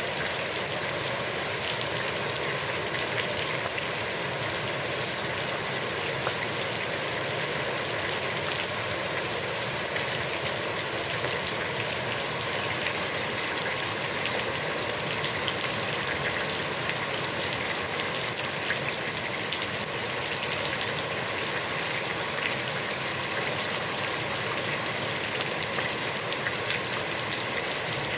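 Heavy rain falling steadily onto a pond, a dense even hiss with countless small drop splashes.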